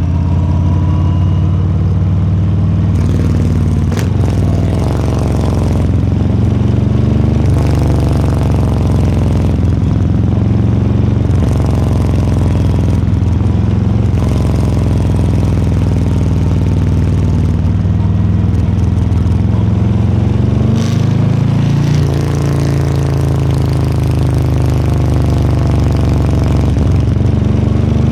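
Harley-Davidson Low Rider S's Milwaukee-Eight 117 V-twin engine running under way, its note climbing and dropping again and again as the bike accelerates, shifts and rolls off. A sharp click is heard about four seconds in.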